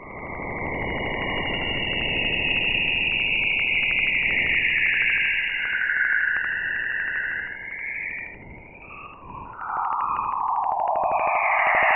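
Jupiter's auroral radio emissions recorded by NASA's Juno spacecraft and converted to sound: an eerie, wavering whistle that slides lower in pitch over hiss and a fast crackle of ticks. It dips about eight seconds in, then returns lower-pitched and louder near the end.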